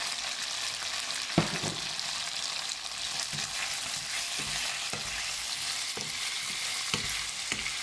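Toothpick-skewered beef pieces sizzling in hot oil in a wok as they are stirred with a wooden spatula. The spatula knocks against the pan several times, the sharpest knock coming about a second and a half in.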